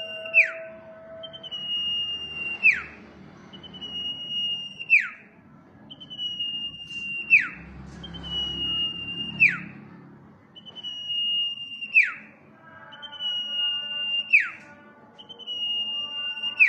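Common iora (cipoh) singing its whistled song: a long, level whistle that ends in a quick downward slur, repeated a little over every two seconds, about seven times.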